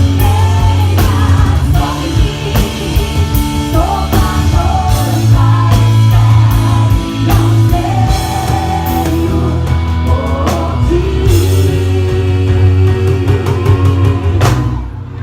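A live band plays a rock-style gospel song, with drum kit, a heavy bass line and a wavering melody line on top. The drums and cymbals stop shortly before the end.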